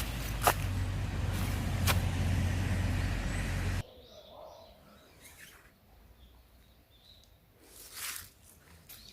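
A low, rumbling outdoor noise, like a passing vehicle, with a few sharp clicks, cuts off abruptly a little under four seconds in. After that it is quiet, with faint bird chirps and a soft thump near the end.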